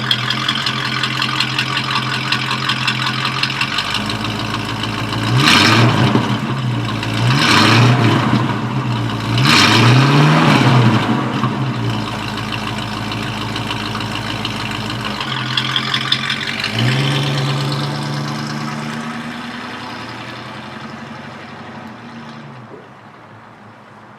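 350 cubic-inch V8 in a 1958 Chevrolet pickup idling steadily. It is revved three times in quick succession, settles back to idle, and fades out near the end.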